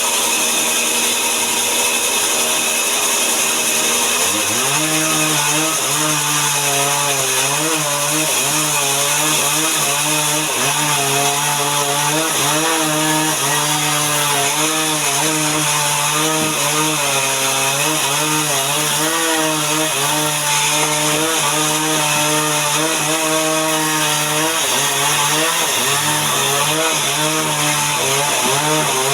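Chainsaw running under load, sawing through timber to cut boards. Its tone drops about four seconds in as the chain bites into the wood, then wavers up and down through the cut.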